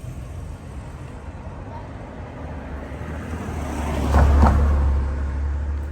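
A vehicle driving past: a low rumble that builds to its loudest about four seconds in, then fades.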